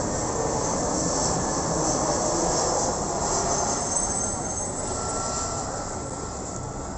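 Jet airliner passing close by, a loud steady engine roar that slowly fades over the last few seconds.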